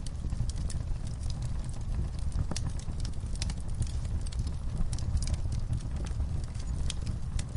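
Wood fire in a camp fire pit crackling and popping: logs and coals giving off irregular sharp snaps, several a second, over a steady low rumble.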